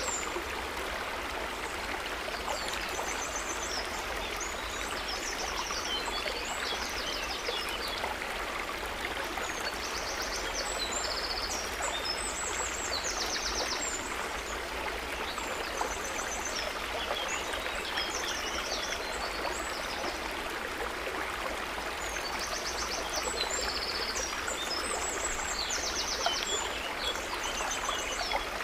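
Water trickling and flowing steadily, a continuous even rush. High, rapid trills come and go over it in short bursts of a second or so.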